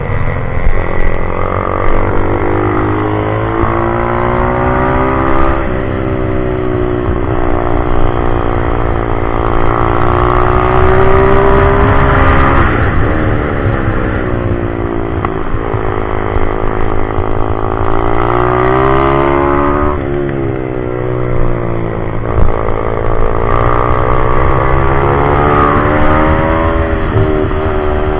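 Pit bike engine being ridden hard, its pitch climbing for several seconds under throttle and then dropping sharply when the throttle is shut, about four times over, with a steady low rumble beneath.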